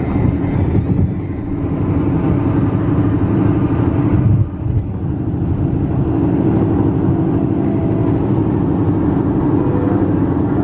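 Steady, loud vehicle rumble with a low hum, dipping briefly about four and a half seconds in.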